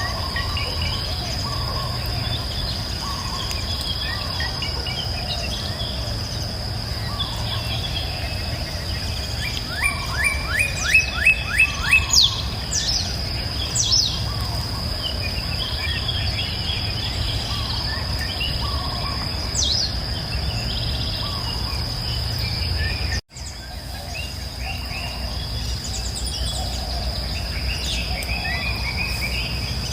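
Wild birds singing and calling over a steady, high-pitched insect trill and a low, even rush of flowing river water. The loudest moment is a quick run of about eight repeated bird notes a third of the way through, followed by a few sweeping whistled calls. The sound cuts out for an instant about two-thirds of the way through.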